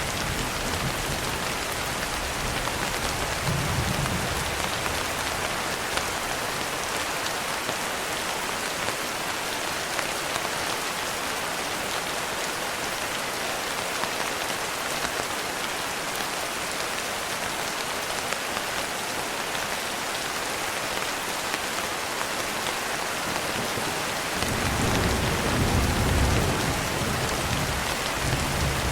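Steady rain pattering on a window pane. Low thunder rumbles come in briefly a few seconds in and again, longer and louder, near the end.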